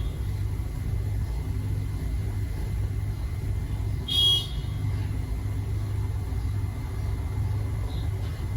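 A steady low rumble, with one short high chirp from a pet bird about four seconds in.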